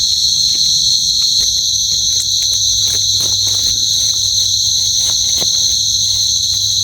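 A dense night chorus of insects: a steady, shrill, unbroken drone, loud and high-pitched, with scattered small clicks over it.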